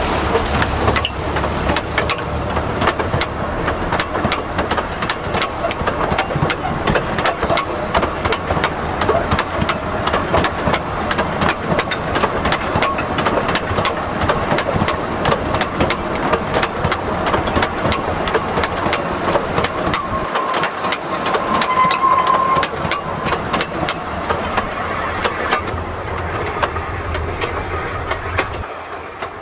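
Narrow-gauge industrial train running, with a dense rapid clatter of wheels and wagons over the track. A short high tone sounds about two-thirds of the way through.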